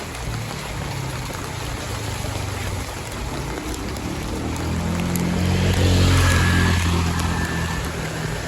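A motor vehicle's engine passing close by, getting louder to a peak about six seconds in and then fading, with a hissing wash of water as its tyres pass through floodwater.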